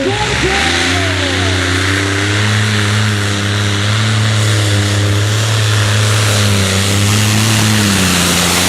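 Competition pulling tractor's engine running flat out under load, holding one steady pitch with a loud exhaust rush. A brief falling whine comes about a second in, and the pitch dips slightly near the end.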